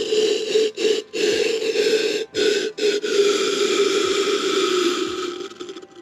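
Just-boiled water being poured from a kettle, in a few short pours with brief stops, then one longer steady pour that tails off near the end.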